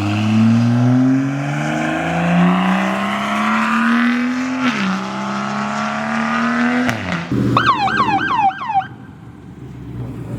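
A car's engine accelerating hard away, its note climbing, dropping once at an upshift about halfway through, then climbing again. Near the end come four quick falling squeals in a row.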